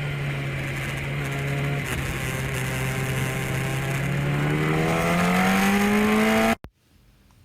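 An engine-like drone rising steadily in pitch for about six seconds, then cutting off abruptly.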